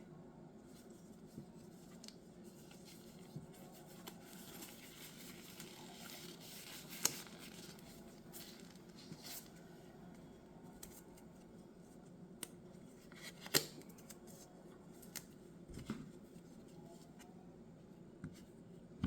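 Scattered small clicks and taps from handling small objects, over a low steady room hum, with two sharper clicks about seven seconds in and again near fourteen seconds.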